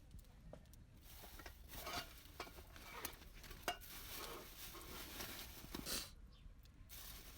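Stirring in a metal pot or pan: a soft rustle with many small clicks and taps, pausing briefly near the end.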